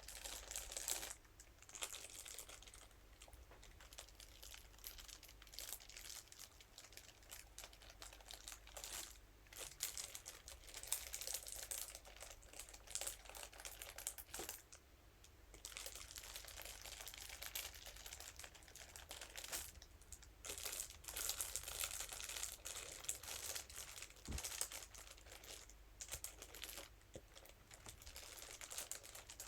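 Crinkly material crinkling as a scalp massage brush is rubbed and scratched over it. The crackling comes in continuous passes with a few short pauses.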